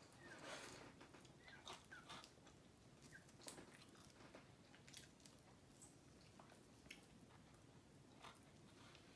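Faint close-up eating sounds: chewing and small crunches of crispy fried chicken, with scattered mouth clicks and smacks.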